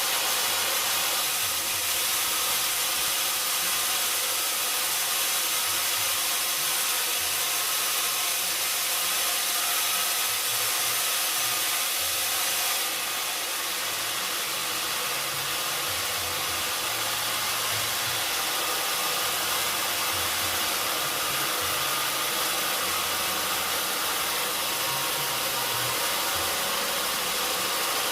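Sawmill machinery running steadily, a continuous mechanical noise with a strong hiss that drops slightly in level about halfway through.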